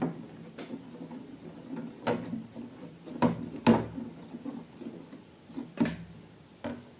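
Handling noises: a series of irregular short knocks and clicks, about eight over several seconds.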